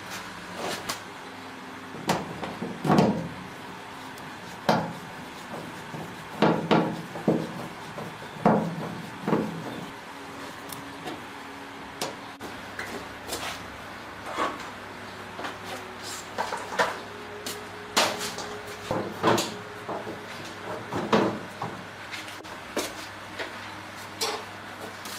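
Irregular knocks, clicks and clatter of hand work on hard parts, over a faint steady hum.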